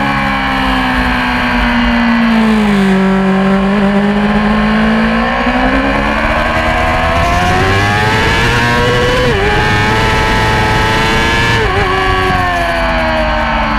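Yamaha R6 600 cc inline-four race motorcycle engine, heard from on board: the revs fall as it slows, stay low for a few seconds, then climb hard through two quick upshifts, each a brief dip in pitch, and fall again near the end.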